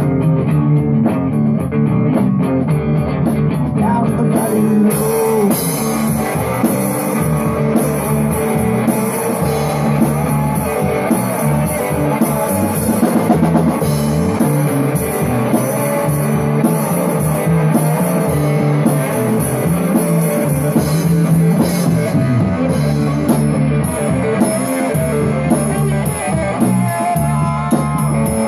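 Rock band playing an instrumental passage: guitar, bass guitar and drum kit, with the drums picking up brighter and fuller about five seconds in.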